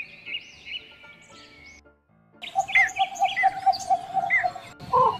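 Birds chirping and calling: high chirps for the first couple of seconds, a brief break, then a louder, busier chorus of falling calls over a rapid, steady pulsing call.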